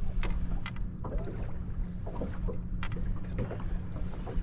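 Fishing-boat ambience: wind rumbling on the microphone over a steady low hum, with scattered short clicks and knocks.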